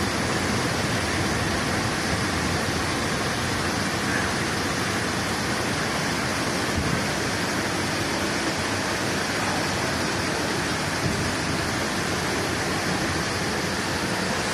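Steady, unbroken rush of fast-moving floodwater, a loud even noise with no distinct events.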